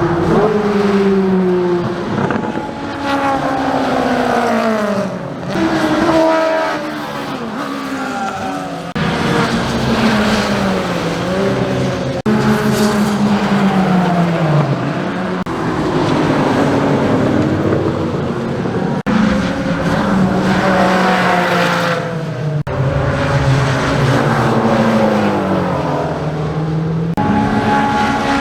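Car engines revving hard and falling back again and again, in a string of short clips cut one after another.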